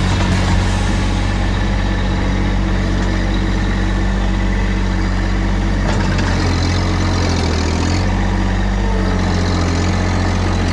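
Tractor engine running steadily, its note shifting about six to eight seconds in as the revs or load change.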